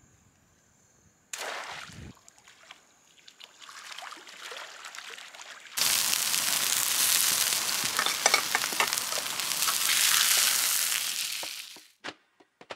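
Yabby tails in a frying pan and a steak on a hotplate over a campfire sizzling loudly, with crackles in the hiss; the sizzle starts abruptly about six seconds in and cuts off near the end. Before it comes a splash about a second in, as a yabby net hits the dam water, and then quieter rustling.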